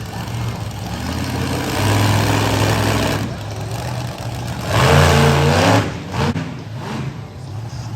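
Monster truck engine running and revving, with two swells in the revs: one about two seconds in and a louder one about five seconds in that rises and falls in pitch.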